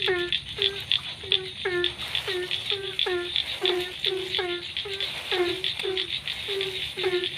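Frogs calling after rain: a chorus of short, overlapping croaks, about three a second, each dropping slightly in pitch, with a rattling high ticking alongside.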